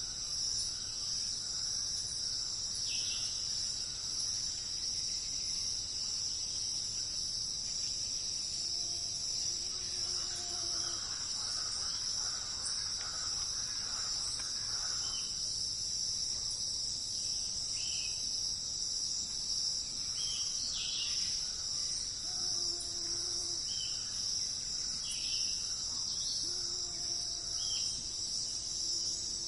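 Forest insects trilling in a steady, unbroken high-pitched chorus, with short bird chirps scattered throughout. There is a stretch of softer bird warbling in the middle and a few short low-pitched calls.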